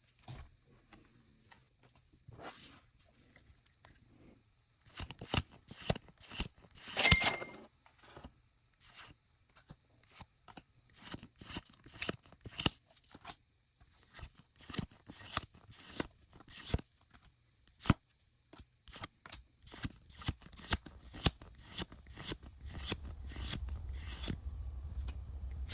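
Pokémon trading cards being handled: a long run of short, crisp slides and flicks of card stock, irregular and coming several a second in places, as cards are shuffled or flipped through one by one.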